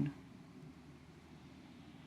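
Near silence: faint, steady room tone with a low hum.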